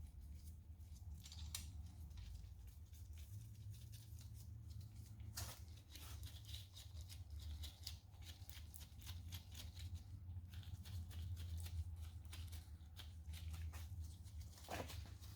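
Faint light metallic clicks and ticks from main bearing cap bolts being handled and threaded in by hand, over a steady low hum.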